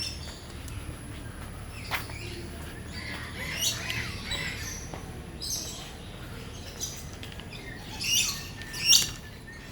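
Parrots squawking: a few short, harsh calls scattered through, the loudest two near the end.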